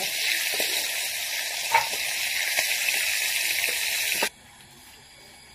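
Chicken pieces sizzling in hot oil in a wok, with a few clicks of a spatula against the pan as they are stirred and lifted out. The sizzle cuts off suddenly near the end.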